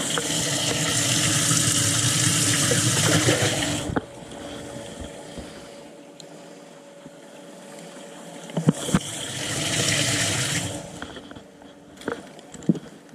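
Water rushing in two spells, the first about four seconds long and the second about two seconds, with a few knocks and clicks between them.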